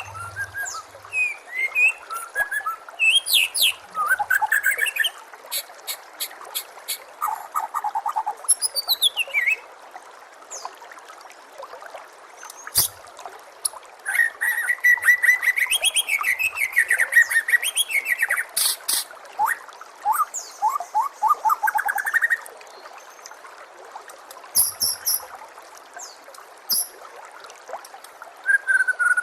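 White-rumped shama (murai batu) singing a varied song of clear whistled notes, rapid trills and sharp clicking notes, with short pauses between phrases. A steady trickle of water runs underneath.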